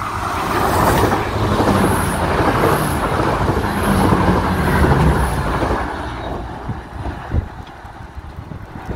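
Irish Rail Class 22000 diesel multiple unit running past at close range: a loud rumble with a low engine hum and a regular high ticking, dying away over the last few seconds as the train moves off.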